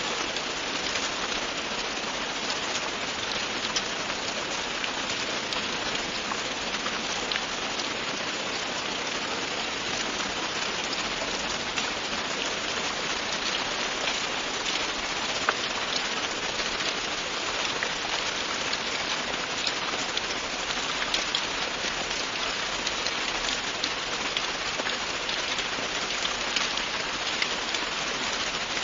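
Steady, continuous rain falling on a surface, an even hiss with many small drop ticks.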